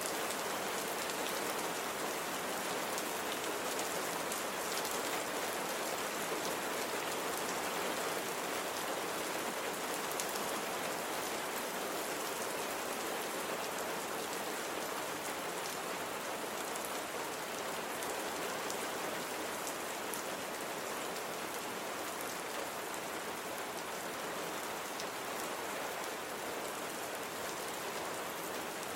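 Steady rain falling: an even hiss sprinkled with the fine ticks of individual drops, unchanging throughout.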